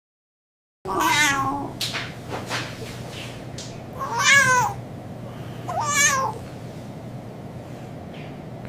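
A cat meowing three times, each call drawn out and wavering in pitch, over a steady low hum. It starts about a second in.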